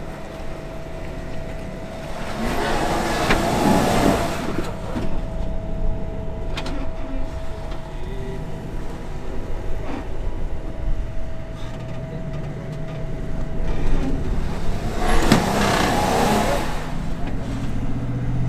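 Off-road Jeep engine running at crawling pace on a rock climb, surging up twice, about three seconds in and again near the end. A thin steady whine sits under it until the second surge.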